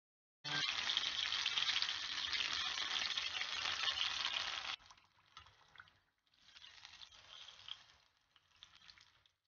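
Gram-flour-battered fish frying in hot oil: a loud, dense crackling sizzle that starts about half a second in and cuts off abruptly near the five-second mark, followed by quieter stretches of sizzling.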